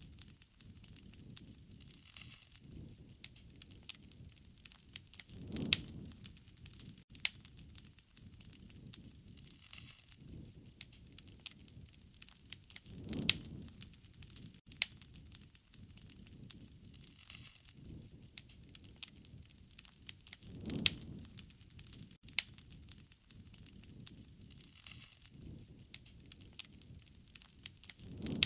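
Wood fire crackling, with many sharp irregular pops and snaps. A low rushing swell rises and fades about every seven or eight seconds, four times.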